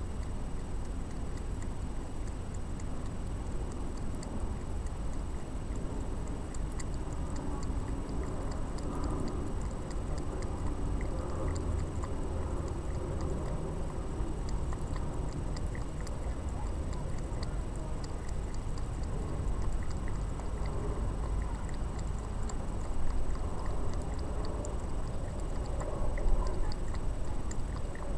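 A cat crunching food, many small quick clicks of chewing, over a steady low rumble.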